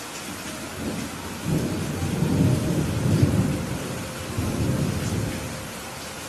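A rumble of thunder over steady rain: the deep rumble swells about a second in, peaks in the middle and fades away near the end, while the rain hiss carries on throughout.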